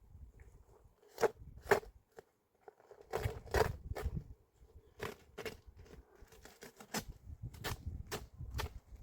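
A series of sharp crunches and knocks at uneven intervals, several close together a little over a second in and again around three to four seconds in, over a low rumble.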